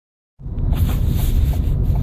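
Ford Fiesta making an abnormal noise: a low rumble that starts suddenly just after the start, with a short tick repeating about every half second.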